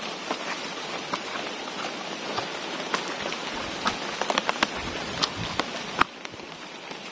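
Steady rain falling, with scattered sharp taps that come thicker in the second half and one louder knock about six seconds in, after which the rain hiss drops a little.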